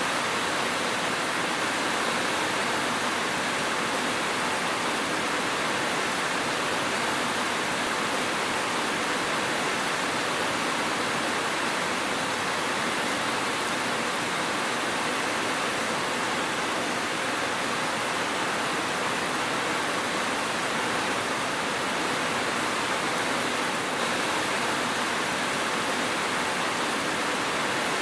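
Steady, dense rain making an even hiss, with no single drops, rumbles or changes standing out.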